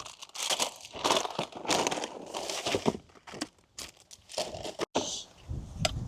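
Irregular crinkling and rustling, in uneven bursts.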